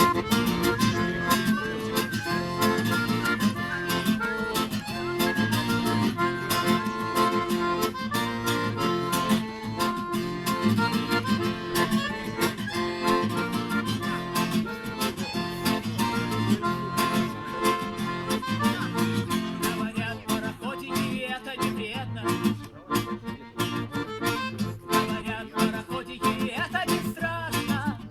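Live acoustic guitar strumming with a harmonica playing the melody over it, from a folk-rock duo.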